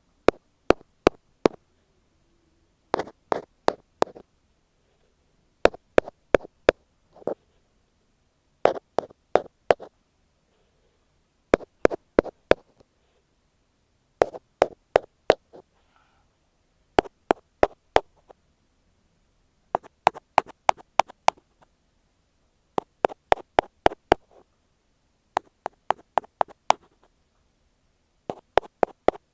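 Ear pick tapping on an earphone microphone: quick clusters of four to six sharp taps, a new cluster about every three seconds, with stillness between.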